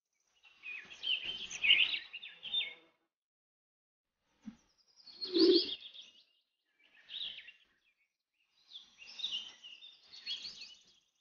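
Small birds chirping in four short bursts of quick high notes, with a dull clunk about five and a half seconds in.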